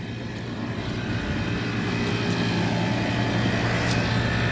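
Outdoor air conditioner condensing units running: a steady low compressor hum under the noise of the condenser fans, getting slightly louder about a second in.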